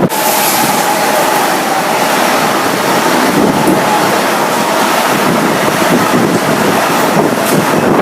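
A train passing at speed close by, a steady loud rush of wheels and air, with a faint steady whine for the first few seconds and wind buffeting the microphone.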